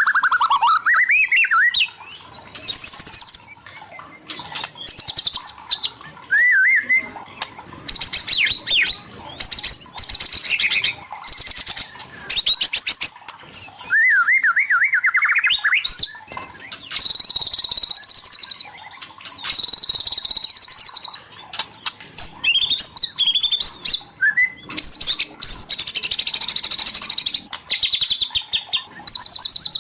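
White-rumped shama singing a long, varied song of clear gliding whistles and fast trilled and chattering phrases, with short pauses between phrases.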